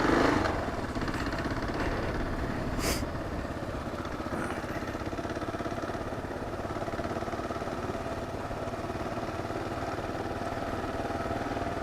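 Kawasaki KLR 650's single-cylinder four-stroke engine running at a steady low throttle while the bike is ridden along a muddy trail. It swells briefly at the start, and there is a single sharp click about three seconds in.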